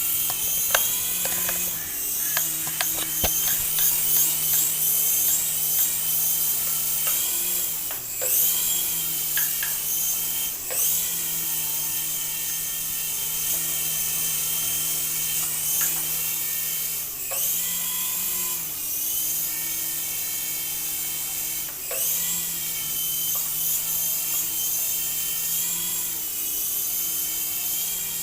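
Small electric motors of a remote-control toy whining steadily, the pitch dipping and climbing again every few seconds as the throttle changes, with a few sharp clicks near the start.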